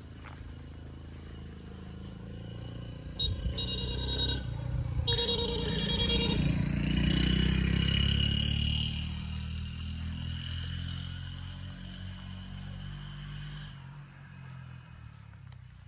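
A motor vehicle's engine passing close by, growing to its loudest about halfway through and then fading away.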